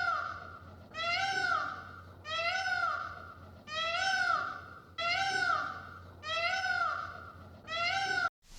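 A cat meowing over and over: about seven even meows, each rising then falling, a little over a second apart, cut off suddenly near the end.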